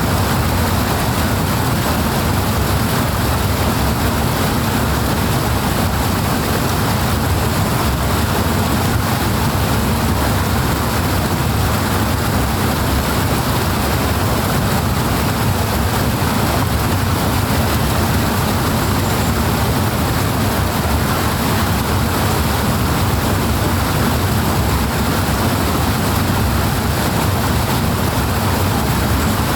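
Powerful flowing water rushing steadily and unbroken, with a deep rumble underneath.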